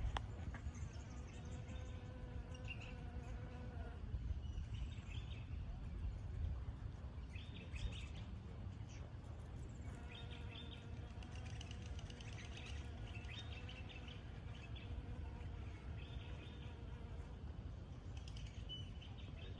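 Bee buzzing, a steady hum that swells and fades as the bee flies near and away, heard twice. Short bird chirps repeat over a low rumble.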